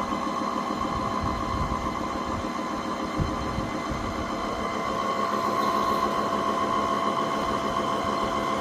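Cordless wet-and-dry vacuum mop running steadily: a motor hum with a few steady whining tones and some irregular low knocks.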